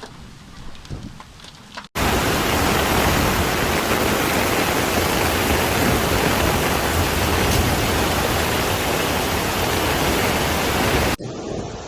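Loud, steady rush of flowing floodwater. It cuts in suddenly about two seconds in and cuts off abruptly near the end. Before it there is a fainter rushing noise.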